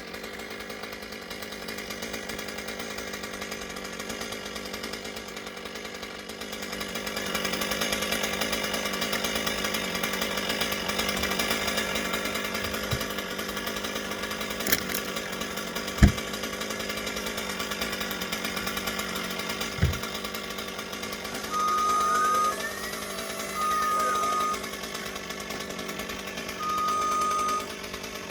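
Chainsaw engine running steadily, growing louder about seven seconds in, with a few sharp knocks in the middle. Near the end come several long, steady beeps.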